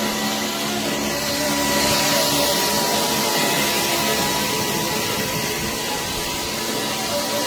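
SKIWEC cordless stick vacuum cleaner running steadily: an even rush of air with a thin, constant tone in it.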